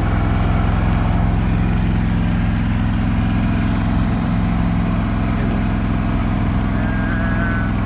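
Engine-driven welder-generator running steadily at a constant speed.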